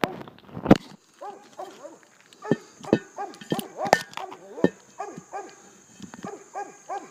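Repeated short animal calls, each rising and falling in pitch, coming in quick runs of several a second. Two sharp knocks sound near the start.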